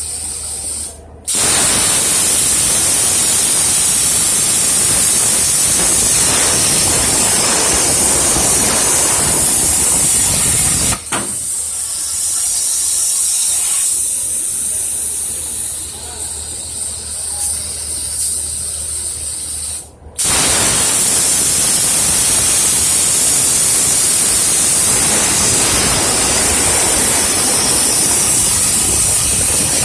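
CNC profile cutting machine's torch hissing loudly and steadily while cutting. The hiss breaks off briefly about a second in and again about two-thirds of the way through, and is thinner for a stretch in the middle.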